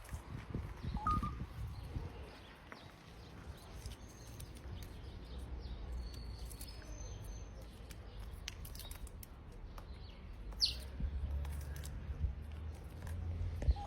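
Scattered short bird chirps and whistles: a brief call about a second in, a few high level whistles in the middle, and a sharp falling whistle near the end. Beneath them is a low steady outdoor rumble.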